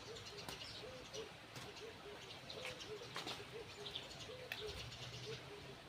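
A dove cooing outdoors in a steady run of short, low notes, about two a second, with small birds chirping. A few sharp knocks stand out, the loudest a little past the middle.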